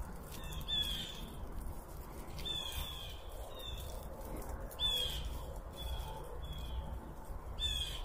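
Wild birds calling: short, harsh calls in small groups every second or two, over a steady low rumble.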